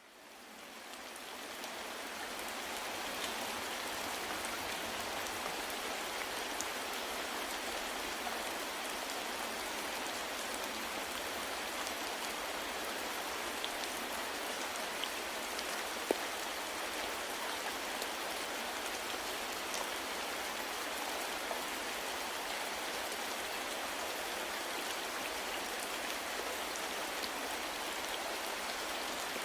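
Steady rain falling, an even patter with scattered individual drops, fading in over the first couple of seconds. One slightly sharper drop tick sounds about halfway through.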